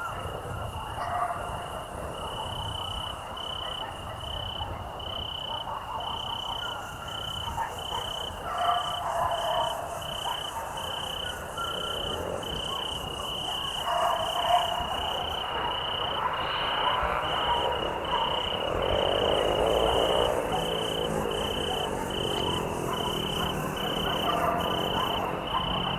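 Evening chorus of a cricket and frogs: the cricket chirps on one high pitch in a steady, evenly spaced rhythm, while frogs croak underneath, swelling a little past the middle.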